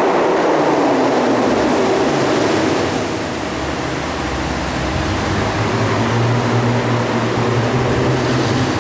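McLaren 650S Spider's twin-turbo V8 heard from the passenger seat, its revs falling over the first couple of seconds as it comes off an acceleration, then settling to a lower steady note. A heavy rushing road and wind noise runs underneath throughout.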